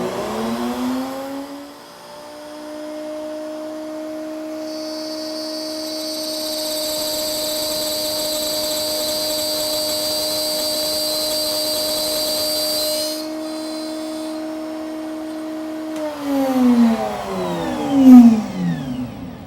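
Router on a router table coming up to speed, then its bit cutting a test groove through the jig's fence for about eight seconds with a high hiss over its steady whine. It is then switched off and winds down with a falling pitch near the end.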